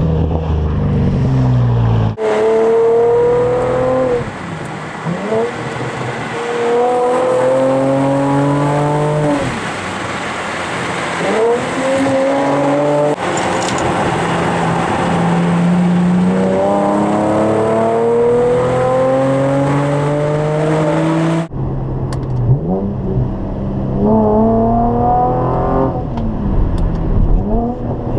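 Chevrolet Camaro exhaust through Dynomax Race Bullet mufflers under hard acceleration. The engine note climbs in pitch and drops back at each gear shift, over several pulls with abrupt cuts between them.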